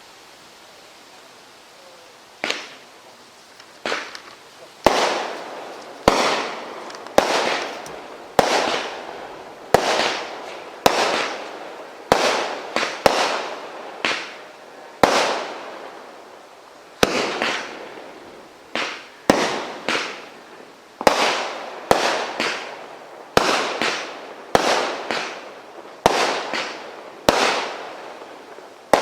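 A firework cake firing shot after shot, about one a second, starting about two and a half seconds in: each shot a sharp bang followed by a tail that fades over about a second.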